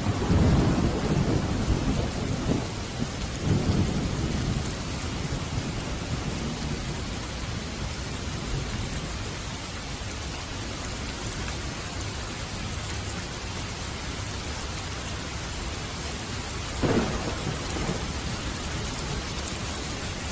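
Steady rain with thunder: a low rolling rumble in the first few seconds, then a shorter, sharper clap near the end.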